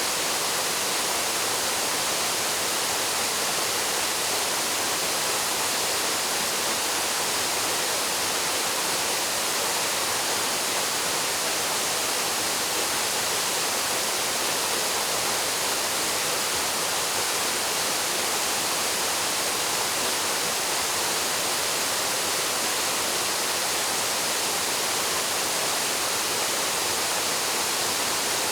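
Waterfall pouring into its plunge pool: a steady, unbroken rush of falling water, strongest in the hiss and higher ranges with little deep rumble.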